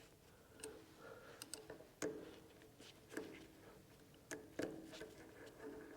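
Faint, scattered metallic clicks and taps of an Allen key and small parts being handled on a mini metal lathe as its screws are snugged by hand. There are about half a dozen light clicks in six seconds, some with a brief metallic ring.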